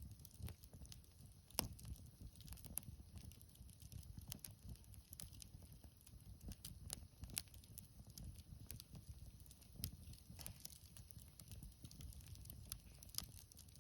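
Wood bonfire crackling quietly: irregular sharp pops and snaps of burning wood over a soft low rumble.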